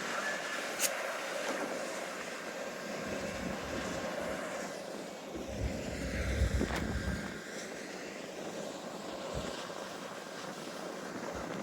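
Steady rumbling hiss of an Amtrak passenger train on the move, with gusts of wind on the microphone about five to seven seconds in.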